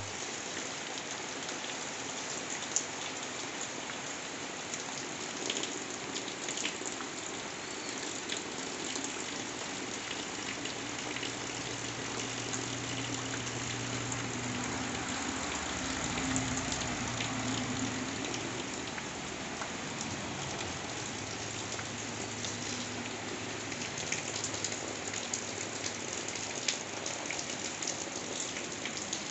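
Steady rain falling on trees and grass: a continuous hiss dotted with the ticks of single drops. A faint low hum joins in about a third of the way through and fades out again after the middle.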